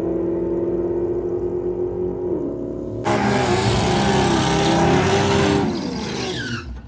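Drag-racing car engines: a steady engine note at first, then about three seconds in an abrupt change to a louder engine sound whose pitch swings up and down, cutting off just before the end.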